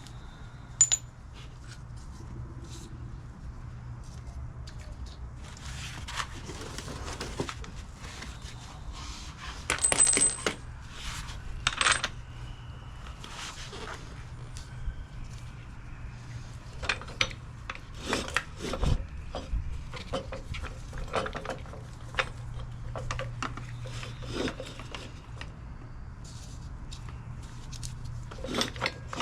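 Metal hand tools and parts clinking and clattering in a string of irregular knocks, some with a short metallic ring, over a steady low hum.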